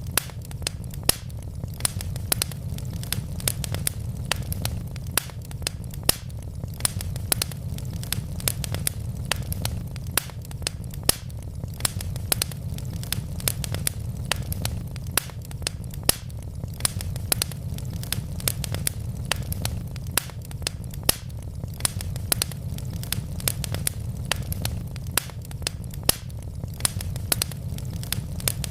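Wood logs burning in a fireplace, crackling with many irregular sharp pops and snaps over a steady low rumble.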